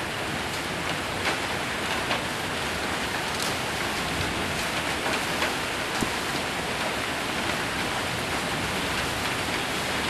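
Heavy rain with hail falling on a roof: a steady hiss of rain with scattered sharp ticks of hailstones striking.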